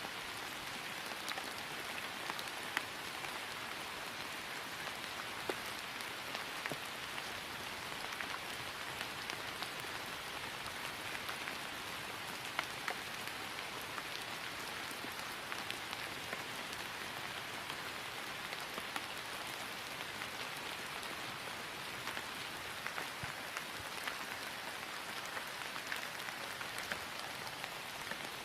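Steady rain falling on grass, an even patter with scattered single louder drops.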